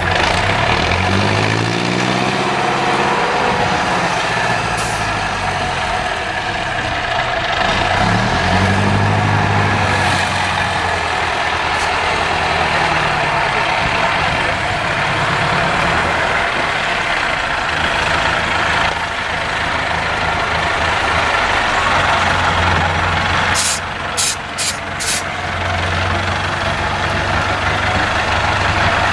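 An IFA 4x4 truck's diesel engine running under load, its pitch rising and falling as it is revved up and down several times. Four short hisses come in quick succession about 24 seconds in.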